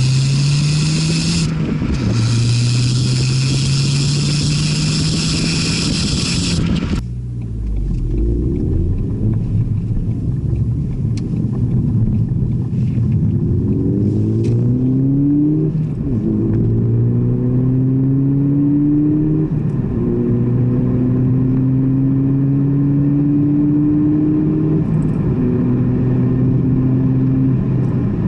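Ford Fiesta ST's turbocharged four-cylinder engine pulling hard through the gears: the engine note climbs, then drops at each upshift, about six times. A loud rushing hiss covers the engine for the first seven seconds and cuts off suddenly, after which the engine note sounds clearer.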